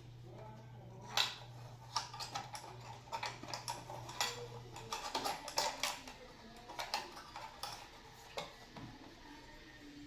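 Small metal parts and tools clinking and clicking irregularly as an impulse heat sealer is handled and reassembled, with a sharp click about a second in.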